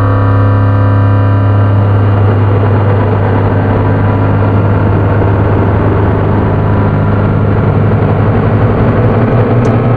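Handmade three-oscillator drone/noise synth with a resonant low-pass filter (METSÄÄN Dirty Drone #21) playing a loud, steady low drone under a gritty, noisy layer. Near the end the low note shifts as a slightly higher low tone comes in.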